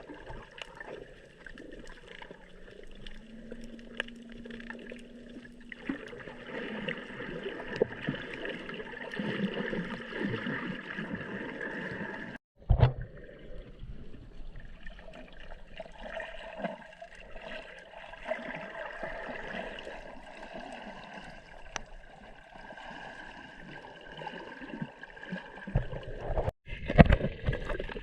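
Water gurgling and sloshing in a steady wash, with a few low knocks. The sound cuts out abruptly twice.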